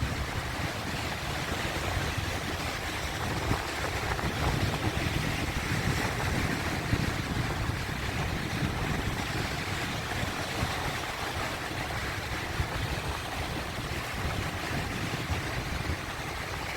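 Sea waves washing in, a steady rush of surf with a low rumble that swells a little midway.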